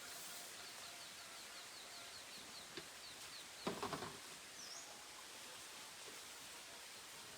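Quiet rural outdoor ambience with a steady background hiss. A bird gives a rapid run of short high chirps, about seven a second, during the first few seconds, then one more chirp later. A brief clatter of knocks comes a little under four seconds in and is the loudest sound.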